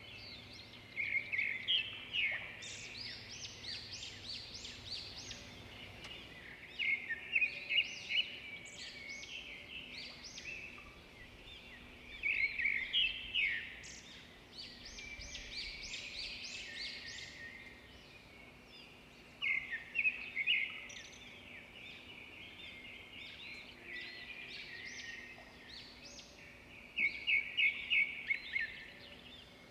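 Zebra finches chirping in short bursts of quick, high notes, about five bursts spread several seconds apart.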